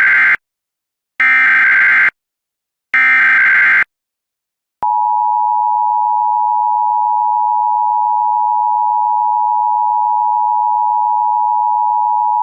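Emergency Alert System data header: three short screeching bursts of digital SAME code, each just under a second, the first already under way. About five seconds in, the steady two-tone EAS attention signal starts and holds at one pitch, marking the start of an emergency alert.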